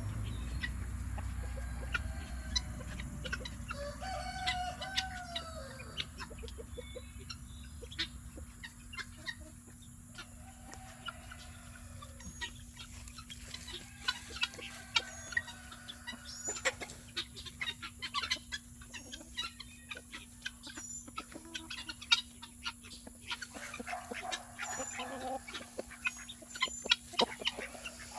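A flock of chickens clucking, with a rooster crowing, and many scattered sharp clicks and taps through the second half.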